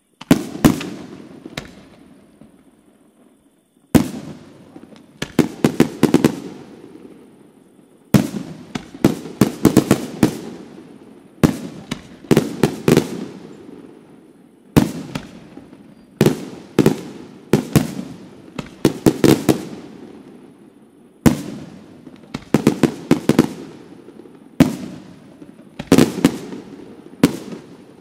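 Aerial firework shells bursting in a display: sharp bangs come in clusters every second or two, each trailed by an echo, after a short lull near the start.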